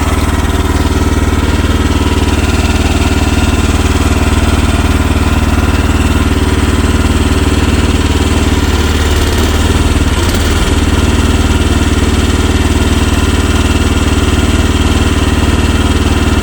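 Future FT15 mini excavator's engine running steadily, with a brief rough change in its note about ten seconds in, as the machine is worked with one track thrown off its rollers.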